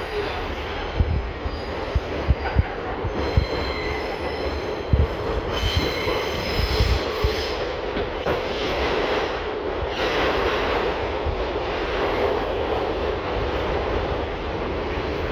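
R62 subway train running, heard from on board: a steady rumble with irregular sharp knocks from the wheels and track, and a high wheel squeal through the middle stretch.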